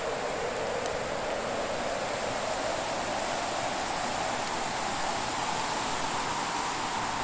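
Fireplace ambience: a steady, even rushing hiss of a fire, with hardly any distinct crackles or pops.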